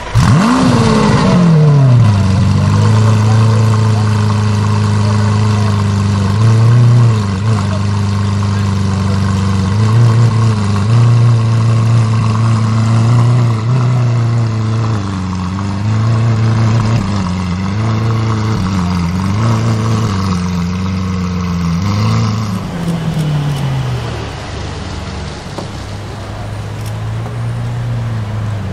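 Lamborghini Aventador LP750-4 SuperVeloce's V12 with factory race exhaust catching and flaring in revs, then settling to a high cold-start idle that wavers slightly up and down. The idle drops lower and quieter about 23 seconds in.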